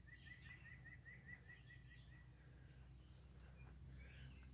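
Faint birdsong: a bird repeating a short chirp about five times a second for some two seconds, then a higher, thin, fast trill near the end, over a low steady rumble.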